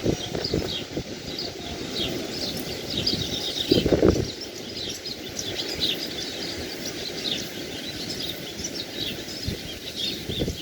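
Many small birds chirping in quick, overlapping calls, over a low rushing noise of sea or wind that swells briefly about four seconds in.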